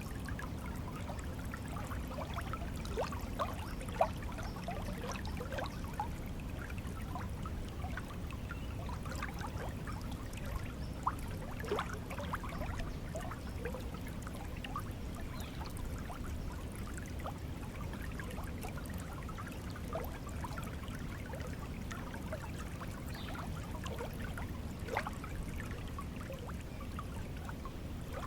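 Stream water flowing steadily: a low rush overlaid with many small bubbling, gurgling notes, and a few louder plops scattered through.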